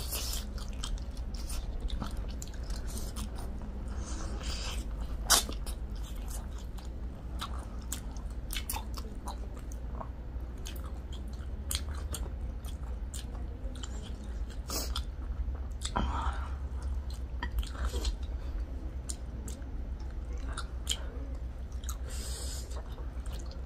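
Close-up eating sounds of two people chewing and biting into noodles and fried chicken: irregular wet clicks and smacks, with one sharper snap about five seconds in, over a low steady hum.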